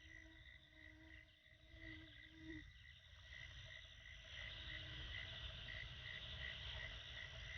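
Faint insect chorus: a cricket-like chirp pulsing about three times a second, joined about four seconds in by a louder, higher buzzing chorus, over a low rumble.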